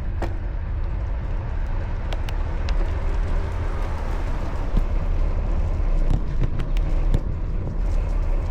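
Steady outdoor road noise from a moving bicycle: a heavy low rumble of wind on the microphone under a hiss of road and traffic noise, with scattered light clicks and rattles.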